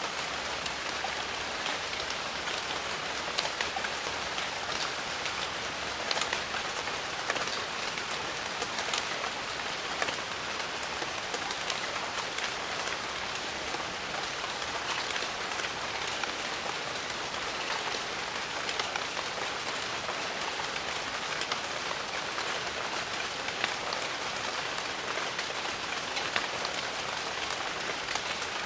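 Steady rain in a jungle: a continuous even hiss of falling rain with many close single drops ticking sharply through it.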